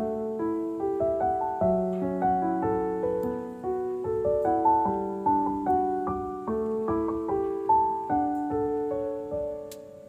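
Background music: a gentle solo piano melody with soft, evenly paced notes.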